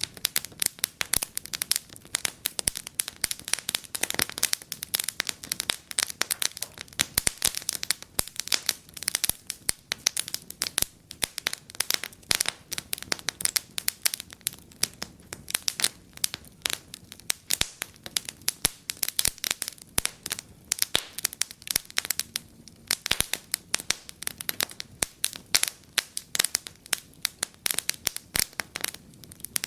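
Wood fire in a fireplace crackling steadily, with many irregular sharp pops and snaps.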